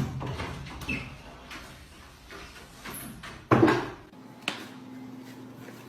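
A few knocks and bumps amid handling noise, the loudest a sharp knock about three and a half seconds in and a smaller one about a second later.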